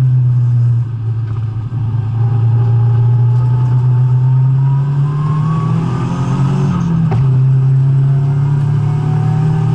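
Nissan S14 200SX engine running hard on track, its pitch climbing as it accelerates, with a brief drop in loudness about a second in as the throttle lifts. A short sharp knock about seven seconds in.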